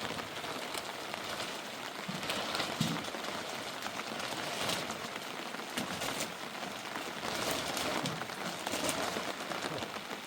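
Rain falling steadily on a surface: a dense hiss of drops with many small, sharp ticks throughout.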